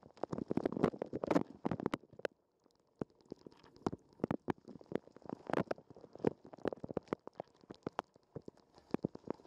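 Water from a dishwasher's wash spray splashing and pattering on a waterproof sports camera's housing, heard from inside the housing: dense irregular splats and ticks in clusters that come and go, with a brief lull about two to three seconds in.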